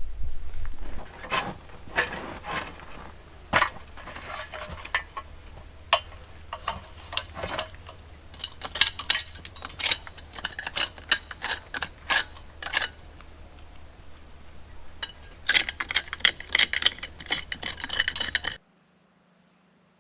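Stonemasonry work: irregular sharp clicks, taps and clinks of stone and metal hand tools over a low steady rumble. There is a quick flurry of clinks near the end, then the sound stops abruptly.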